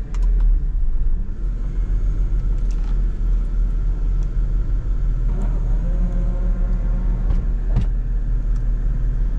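Toyota Sprinter AE110 on the move, heard from inside the cabin: a steady low engine and road rumble. The engine note rises about five seconds in, and there are a few light clicks.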